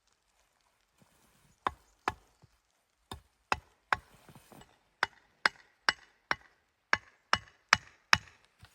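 Wood being chopped with an axe: a dozen or so sharp, ringing strikes, about two a second, in short runs starting about a second and a half in.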